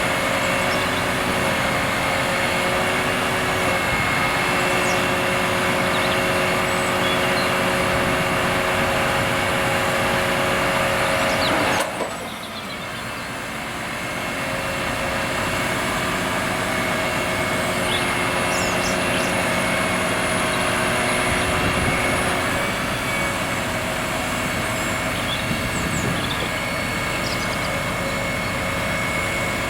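Delivery lorry's engine running steadily to drive its HIAB crane's hydraulics, with steady whining tones over the engine noise. The sound drops suddenly about twelve seconds in, then builds back up. Faint high chirps now and then over the top.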